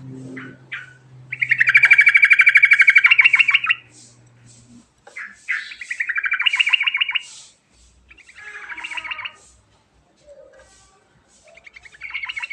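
Yellow-vented bulbul (trucukan) song: four bursts of fast, rattling chatter. The first burst is the longest and loudest, and the last begins near the end.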